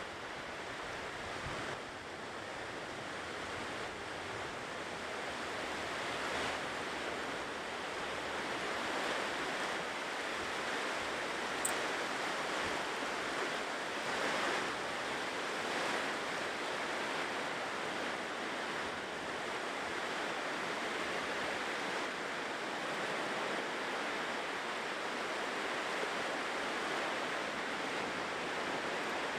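Ocean surf washing onto a shore: a steady rush of breaking waves that swells and eases every few seconds.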